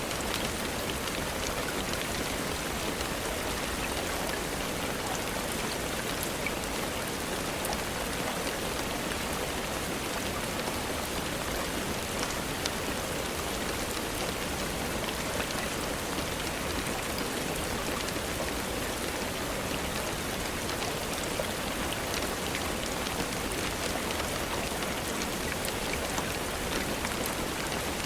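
Steady rainfall: an even, unchanging hiss with scattered faint ticks.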